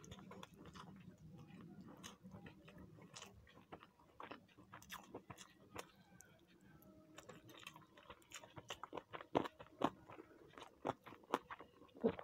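A person eating fried rice and chicken kosha: chewing with many small wet mouth clicks and smacks, which come faster and louder in the second half.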